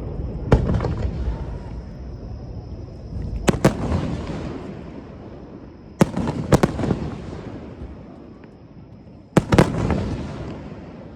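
Aerial firework shells bursting: four rounds of sharp bangs about three seconds apart, several of them coming in quick pairs or clusters, each followed by a long rolling rumble that fades away.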